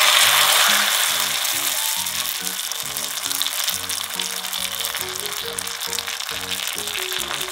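Seaweed and rice paper pieces deep-frying in hot oil, a dense crackling sizzle that is loudest at the start and then settles to a steady level. Background music plays underneath.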